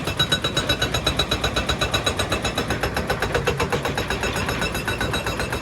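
Excavator-mounted hydraulic rock breaker hammering rock in rapid, even blows, about eight a second, with the excavator's diesel engine running under it.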